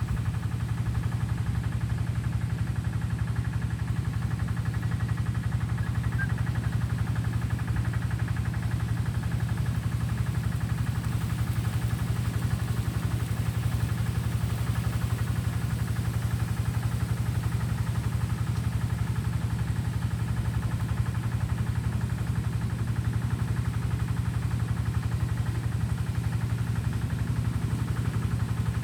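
An engine running steadily at idle: a low, even hum with no change in speed.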